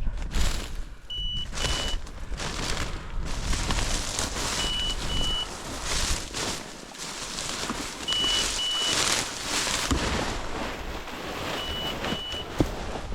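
Electronic beeper on a hunting dog's collar sounding a high double beep about every three and a half seconds, over heavy wind and brush noise.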